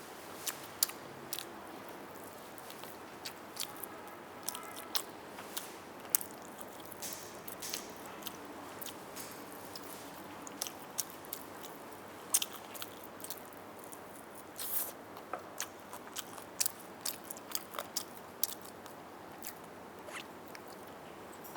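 Close-up eating of roast chicken: biting and chewing with irregular crunches and sharp clicks, spaced unevenly and sometimes in quick clusters.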